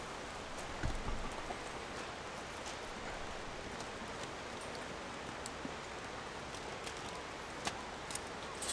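Wood campfire burning: a steady hiss with scattered sharp crackles and pops, several coming close together near the end.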